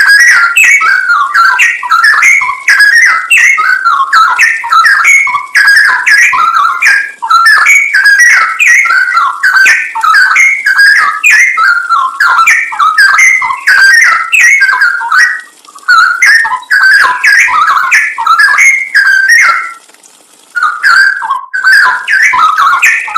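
Straw-headed bulbul (cucak rowo) singing: a continuous stream of fast, liquid whistled phrases, breaking off briefly twice in the second half.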